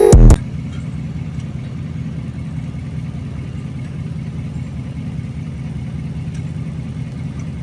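A vehicle engine running steadily at idle, low and even. Loud electronic music cuts off abruptly about a third of a second in.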